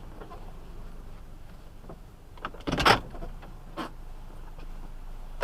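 Inside a car: a steady low engine hum with scattered clicks and knocks, and one loud, short clatter just under three seconds in.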